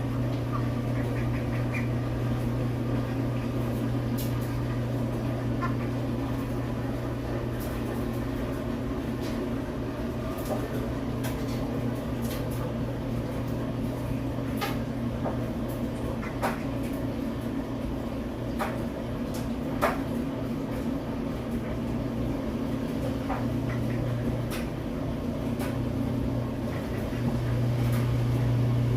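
Steady low hum of a running machine or appliance, with a few faint clicks scattered through it.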